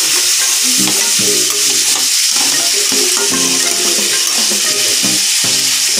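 Crab legs and claws frying in hot mustard oil in a karahi over a high flame, with a steady loud sizzle, while a spatula stirs them around the pan.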